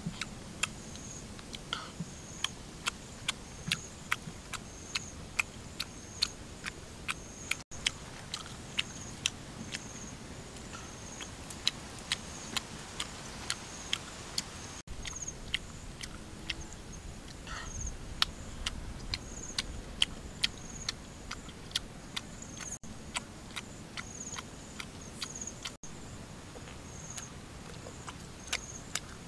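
Close-up chewing with open-mouthed lip-smacking: sharp wet mouth clicks, irregular at about two a second.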